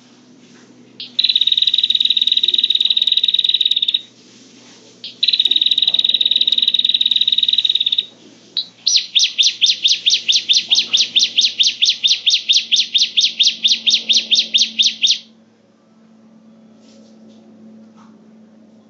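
Prenjak (prinia) lure call: two loud, sustained buzzy trills of about three seconds each, then a run of rapid repeated notes, about six a second, lasting some six seconds.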